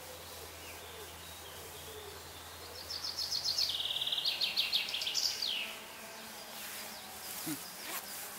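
A songbird sings one phrase of fast repeated high notes, ending in a quick falling flourish, over a faint forest background. Near the end come a brief low sound and a couple of soft clicks.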